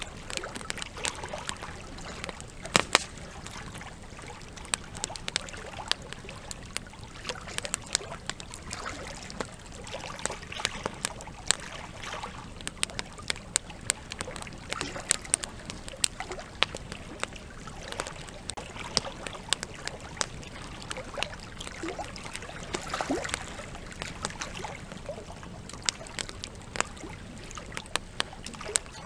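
Campfire crackling, with frequent sharp pops and snaps at irregular intervals, over the steady trickle and slosh of a river.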